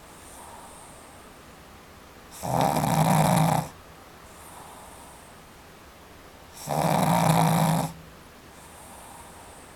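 A pet dog snoring while deeply asleep: two very loud snores, each just over a second long and about four seconds apart, with much quieter breathing between them.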